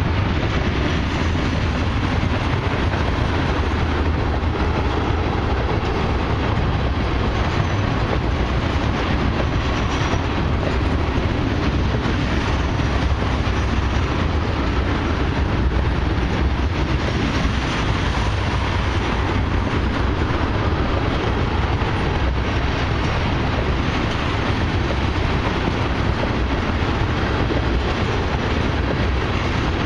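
Loaded ethanol tank cars of a long freight train rolling past at speed: a steady, unbroken rush of steel wheels on rail, heaviest in the low end.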